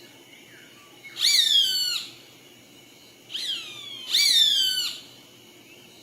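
An animal calling twice: loud, high cries that slide downward in pitch, the second call broken into a short note and then a longer one.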